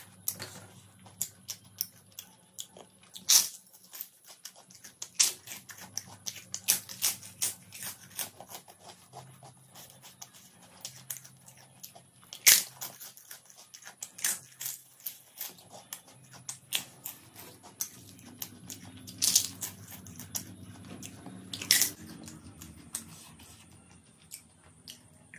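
Close-up eating sounds: a crisp papad (thin lentil wafer) cracking and crunching as it is bitten and chewed, mixed with wet chewing and lip smacks. The crackles come irregularly throughout, and about four crunches stand out as much louder.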